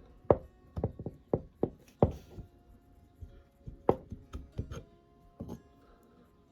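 Irregular sharp knocks and clinks of metal parts from an antique hand drill being worked on, about a dozen strikes, some leaving a short metallic ring.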